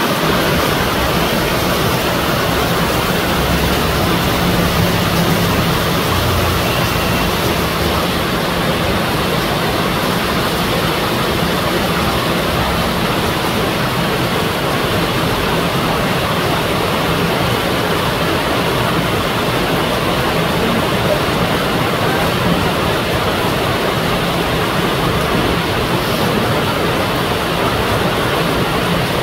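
Heavy rain pouring steadily onto tree foliage, with water streaming off a roof edge.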